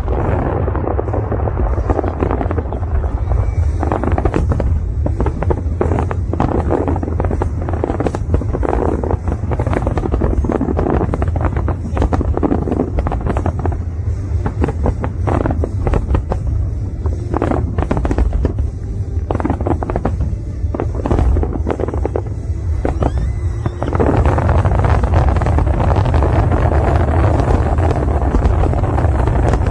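Fireworks going off in quick, irregular bangs and crackles over a deep steady rumble, with music playing. The bursts grow denser and louder near the end.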